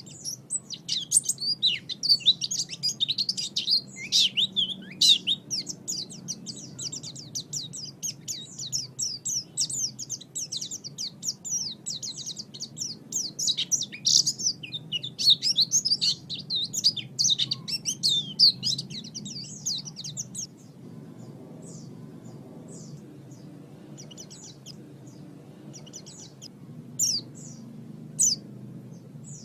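White-eye (pleci) singing a fast, unbroken twittering song that stops about two-thirds of the way through, leaving only scattered short chirps.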